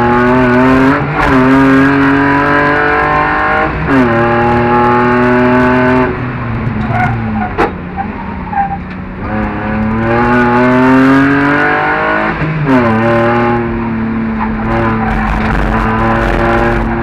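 BMW 320i straight-six engine at full throttle, heard from inside the cabin, climbing in pitch through the gears with quick upshifts about a second in, at about four seconds and near thirteen seconds. Midway it drops off as the driver lifts for a corner, with brief tyre squeal, then pulls hard again.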